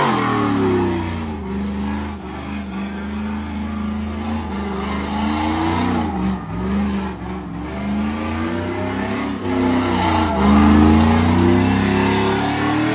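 Truck engine revving up and down several times over a steady hiss of spinning tyres, as in a burnout or donut; the revs climb highest about ten seconds in.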